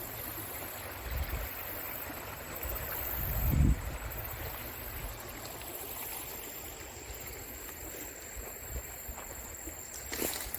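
Creek water running steadily during a salmon run, with a low rumble that swells to its loudest a little over three seconds in.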